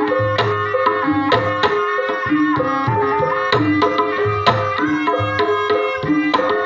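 Gamelan music for an ebeg dance: kendang hand drum strokes over a repeating pattern of struck, ringing pitched percussion.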